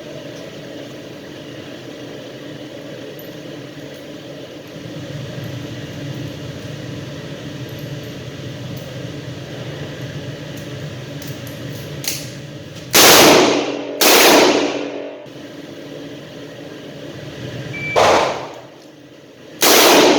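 Double-action revolver shots, four in all, each loud and sharp with a ringing tail. Two come about a second apart a little past the middle, and two more come close together near the end. Before the shots there is only steady background noise.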